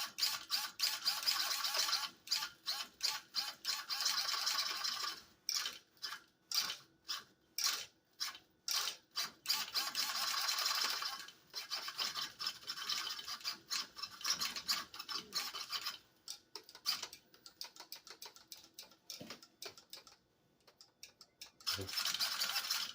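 RC truck's high-torque 30 kg steering servo buzzing in bursts as it swings the front wheels back and forth: a few longer sweeps of one to three seconds and many quick short jabs, with a brief pause near the end. The steering now moves freely, after a stray magnet that made it stick was taken out.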